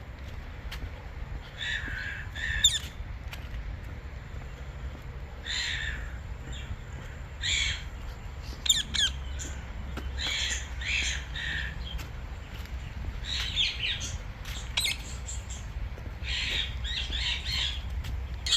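Forest birds giving short, harsh squawking calls, a dozen or so at irregular intervals, some in quick pairs, over a steady low rumble.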